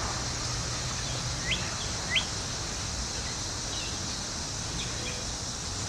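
Northern cardinal chirping: two short rising chirps a little over a second in, then a few fainter ones later, over a steady outdoor hiss.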